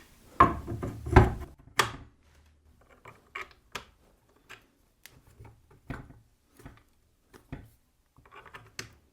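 Metal parts of a pillar drill knocking and clicking as a stiff-fitting part is worked into its hole. There are three sharp knocks in the first two seconds, then lighter, scattered clicks and taps.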